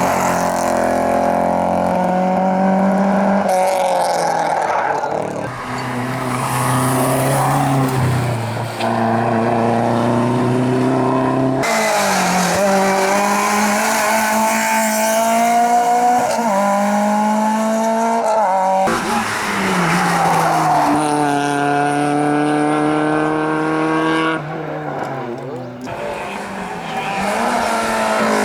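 Race cars' engines revving hard and climbing through the gears, the pitch dropping at each shift, with tyre squeal. The sound cuts abruptly several times from one car to another.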